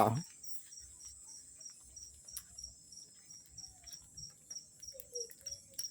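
Crickets chirping in a steady even rhythm, about four chirps a second, with a few faint crackles from the wood fire.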